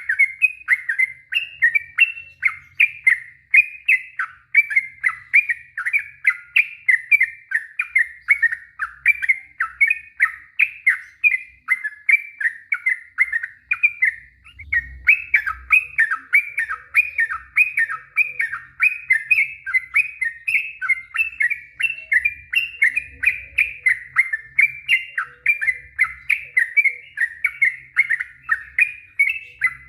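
Yellow-vented bulbul (trucuk) singing a long, unbroken run of quick, bubbling notes, several a second, with a brief pause about 14 seconds in: the long 'ropel' song used to provoke other bulbuls into singing.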